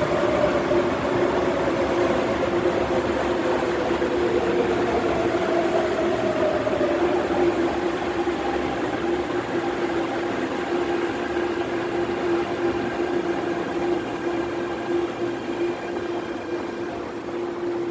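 MTR Airport Express A-Train arriving at the platform, its motor whine falling slowly in pitch as it slows. Under the whine are a steady hum and the rumble of the carriages rolling past.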